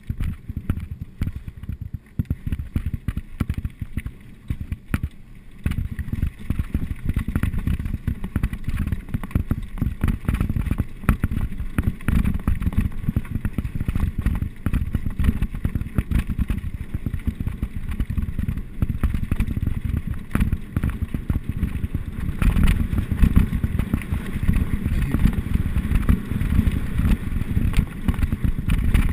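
Wind buffeting the microphone while a mountain bike rattles and clatters over a rough downhill trail, a continuous low rush full of small knocks. It picks up about six seconds in and gets louder again about twenty-two seconds in.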